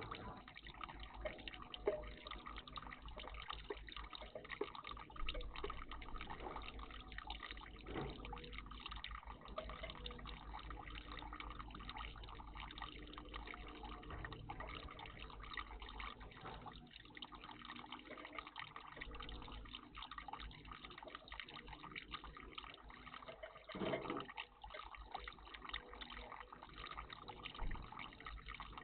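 Water trickling and dripping steadily in a garden bird bath, with a few brief louder splashes.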